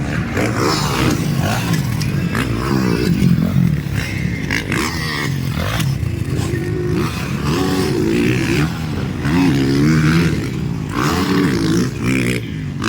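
Motocross dirt bike engines revving up and down over and over as the riders race round the track.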